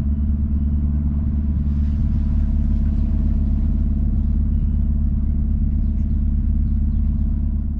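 Boat's diesel engine running steadily under way: a low, even drone that deepens about two seconds in.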